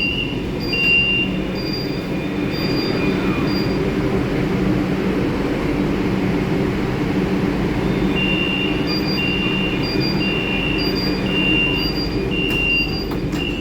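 Kolkata Metro train car standing at a station platform: a steady low hum from the car, with electronic door-warning beeps that alternate between a lower and a higher tone about twice a second, sounding for the first few seconds and again from about eight seconds in.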